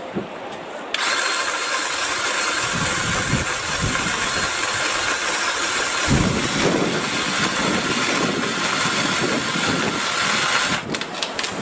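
BLACK+DECKER 18V cordless saw motor running at full speed with a steady high whine. It starts abruptly about a second in and cuts off near the end.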